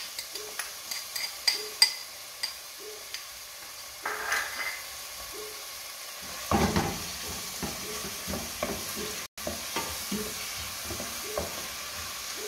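Chopped onion and garlic sizzling in hot olive oil in a stainless steel pot, with sharp crackles over the first few seconds. From about six seconds in, a wooden spoon stirs and scrapes against the pot in quick repeated strokes.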